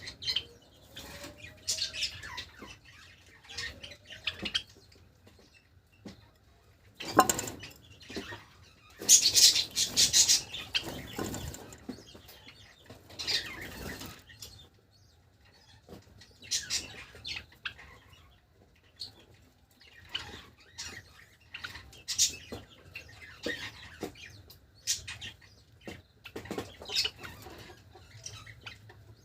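Java sparrows fluttering: irregular bursts of wing flapping, loudest about nine to eleven seconds in, with short chirps between.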